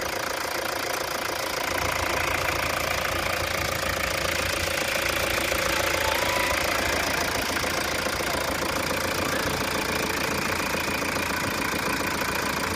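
Toyota Hiace's 3.0-litre four-cylinder turbodiesel engine idling steadily, with an even, unchanging level and no revving.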